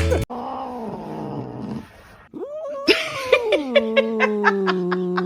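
A cat's vocalising: a falling call, then a short rising one, then a long, drawn-out yowl that sinks slowly in pitch. A regular series of sharp clicks runs alongside the long yowl.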